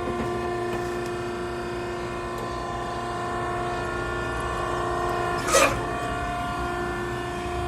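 Maren cardboard baler's hydraulic power unit running with a steady hum of unchanging pitch. A short clunk comes about five and a half seconds in.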